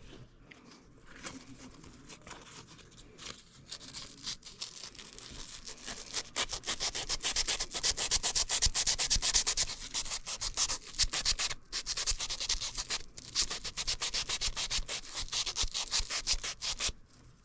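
Furnace flame sensor rod being scrubbed with an abrasive in rapid back-and-forth strokes, cleaning off buildup. The scraping is light at first, grows louder about six seconds in, and stops abruptly near the end.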